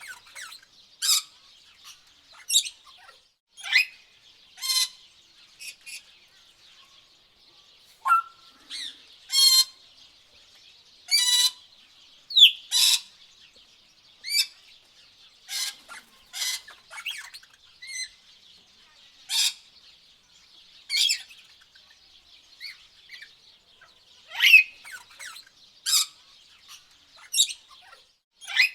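Tropical birds calling: short sharp chirps and squawks, roughly one a second, over a steady high-pitched background chorus.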